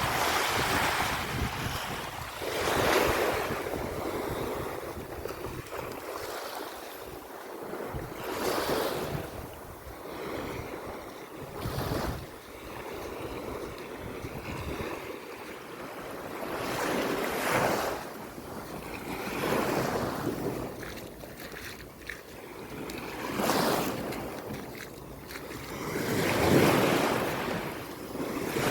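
Sea waves breaking and washing up the shore, swelling and fading every few seconds, with wind gusting over the microphone.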